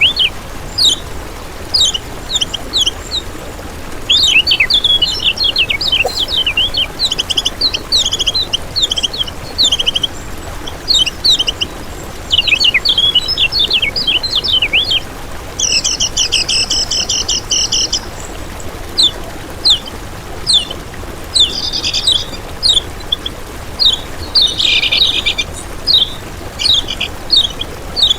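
Kecial kuning songbird singing: quick runs of high chirps and twitters, broken by a buzzy, rattling trill about halfway through and another shorter one near the end.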